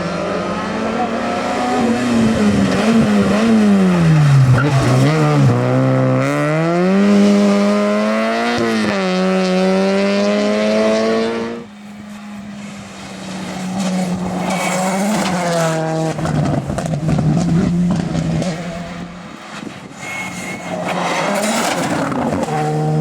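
Rally cars driven hard on a stage, engines revving up and falling back through gear changes, with some tyre squeal. About halfway through the sound cuts off abruptly and a second pass begins, quieter at first and then rising.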